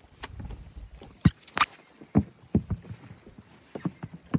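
Irregular knocks and thumps in a fishing boat, about eight sharp ones spread over a few seconds, with a low rumble in the first second.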